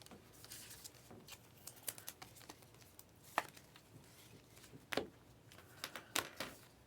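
Trading card packs and cards being handled: faint crinkling of pack wrappers and cards sliding, with scattered sharp clicks and a few louder snaps.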